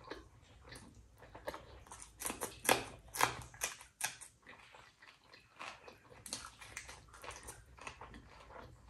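A person eating a rice-and-curry meal close to the microphone: chewing and biting, with a run of irregular mouth clicks that is loudest between about two and four seconds in.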